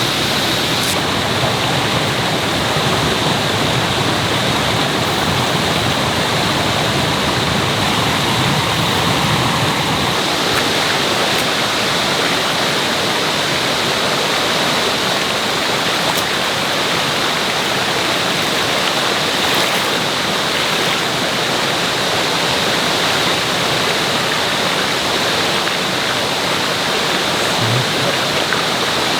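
Mountain stream water rushing steadily, a loud, even wash of noise; the deeper rumble under it thins out about ten seconds in.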